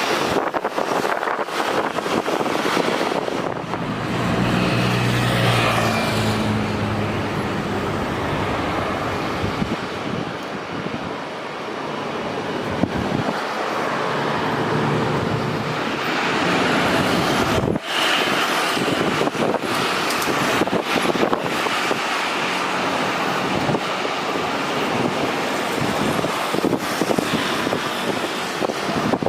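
Loud, steady roar of a Boeing 787-8 Dreamliner's jet engines during takeoff, with wind buffeting the microphone.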